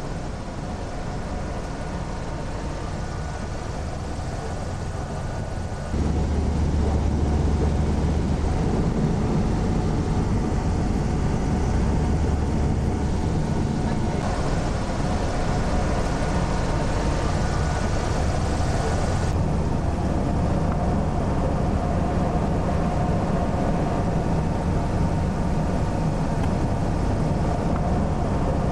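Zeppelin NT airship's piston engines and propellers droning steadily in flight. The drone jumps louder about six seconds in and its tone shifts a couple of times after that.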